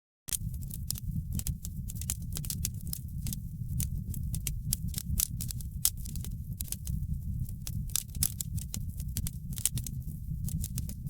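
Wood fire burning in a fireplace: a steady low rumble of the flames with many sharp, irregular crackles and pops. The sound starts abruptly about a quarter second in, after a brief silent gap.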